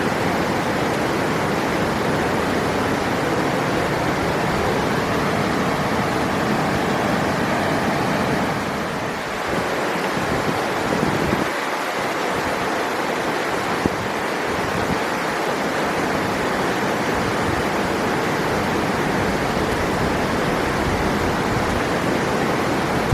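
River water rushing steadily, a continuous even roar of flowing water. The deep part of the rush drops away briefly about halfway through before returning.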